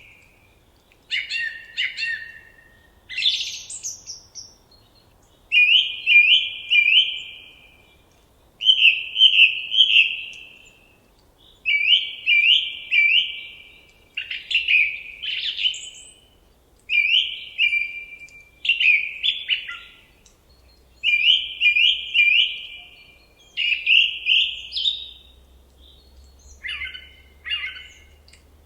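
A songbird singing short phrases of two to four quick notes, a new phrase every two to three seconds, with fainter high chirps from another bird behind it.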